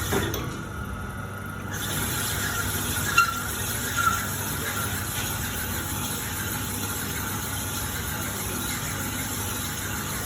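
Cylinder boring machine running as it cuts inside an engine cylinder: a steady machine hum with a wavering high squeal from the cut, and two sharp squeaks about three and four seconds in.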